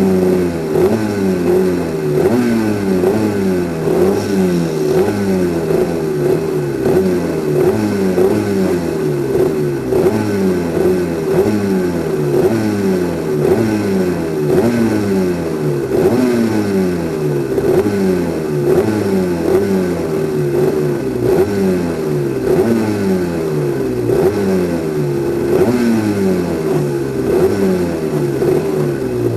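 Twin 250cc two-stroke superkart engine running hard, its pitch climbing and dropping again and again, every second or two.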